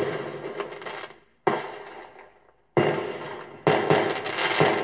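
Fireworks bursting overhead: sudden bangs at the start and about every second and a half, each trailing off in crackling. From about three and a half seconds in, the bursts and crackles come thick and fast.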